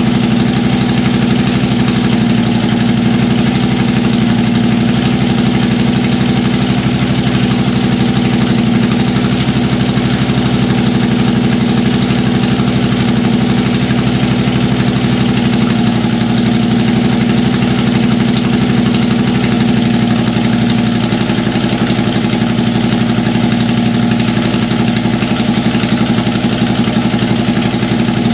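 Honda GX670 670 cc V-twin engine, breathing through twin carburettors with open velocity stacks, idling at a steady speed.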